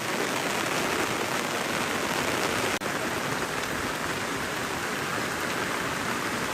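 Steady rain falling, an even hiss; it cuts out for an instant a little under three seconds in.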